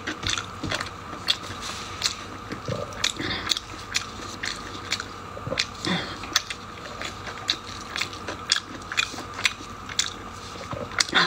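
Close-up eating sounds of a person biting and chewing braised pork-skin rolls, with many short, sharp mouth clicks and smacks at an irregular pace.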